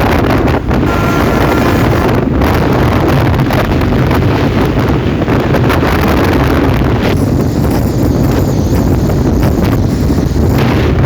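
Loud, steady wind buffeting the microphone on a moving motorcycle, a dense low rumble of rushing air.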